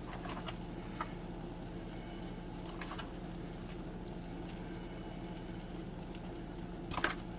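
Beaten eggs and shredded meat frying in a buttered skillet, with a faint, steady sizzle and a few light clicks and taps, more of them near the end.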